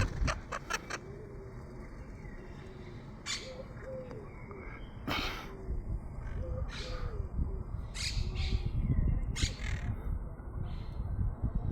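Parrots calling: a quick run of short sharp calls at the start, then single short harsh squawks every second or two.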